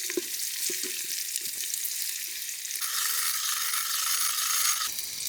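Chopped onions and chillies sizzling in hot oil in a pan, with scattered light clicks of stirring. The sizzle grows fuller about three seconds in.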